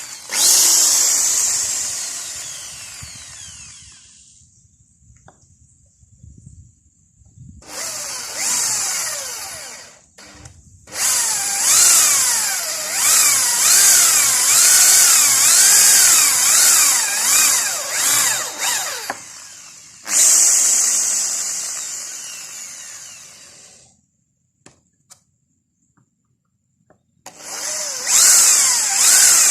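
Handheld electric power tool running on wood in several bursts, with a high motor whine. It winds down slowly after being switched off. In the longest run, about halfway through, the pitch wavers up and down as the tool is worked against the wood.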